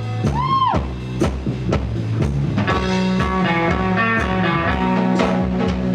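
Live rock band playing an instrumental passage: electric guitar and bass over drums keeping a steady beat. About half a second in, one note swoops up and back down.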